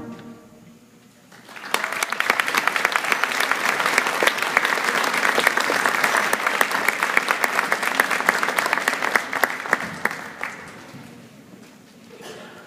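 Audience applauding: it starts about a second and a half in, after a short lull, and dies away about ten seconds in.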